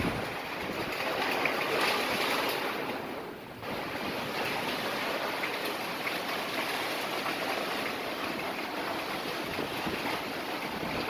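Heavy rain falling, a steady hiss that dips briefly about three and a half seconds in.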